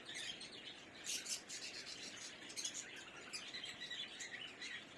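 Faint, scattered chirping of small birds.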